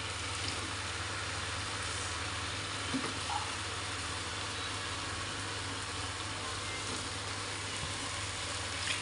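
Chicken feet and chili paste sizzling steadily in a wok, with a low steady hum beneath and a couple of soft knocks about three seconds in as boiled gizzards and livers are tipped into the pan.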